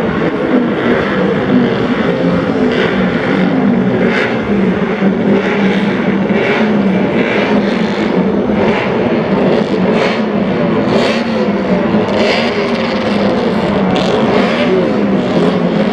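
Several vintage racing motorcycle engines running together, their pitches rising and falling against one another as they are revved.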